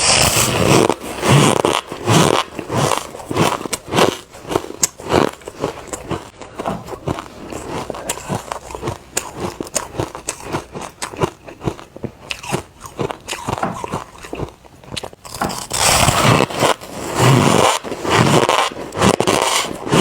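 Close-up biting and chewing of refrozen soft ice: a steady run of sandy, crumbly crunches. There is a loud bite at the very start, and a denser, louder spell of crunching comes in about three-quarters of the way through.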